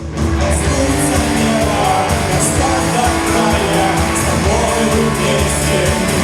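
Live rock band playing loud, with a steady beat, bass and cymbal crashes, and a sung vocal line over it.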